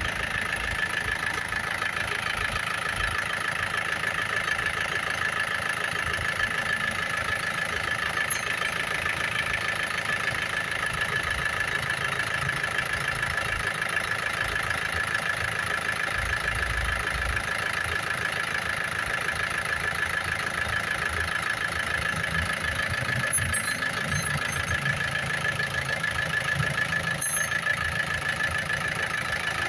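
2013 Isuzu Sportivo engine idling steadily, with an even, fast rhythmic chatter and a constant higher-pitched note over a low rumble.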